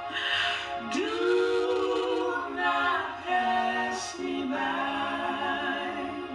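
Voices singing a slow hymn a cappella, holding long notes that change pitch every second or so.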